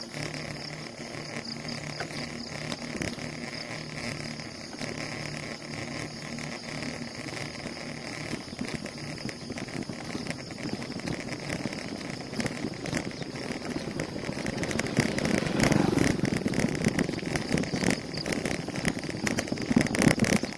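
Road noise during a bicycle ride, with motor traffic running alongside and a steady engine hum in the first half. The noise swells louder over the last several seconds.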